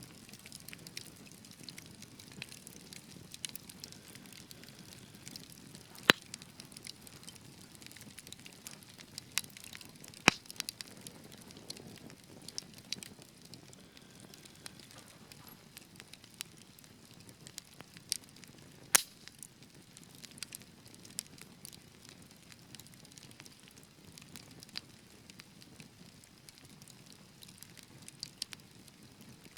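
Fireplace fire crackling over a low steady hiss, with scattered sharp pops. The loudest pops come about six, ten and nineteen seconds in.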